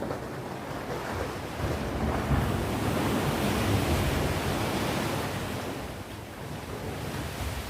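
Sea waves breaking and washing on the shore: a surge of surf that swells about a second and a half in, holds for a few seconds and eases off near the end, with some wind on the microphone.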